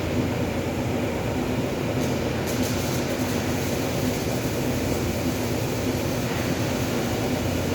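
Steady machine noise: a constant low hum and drone with no breaks.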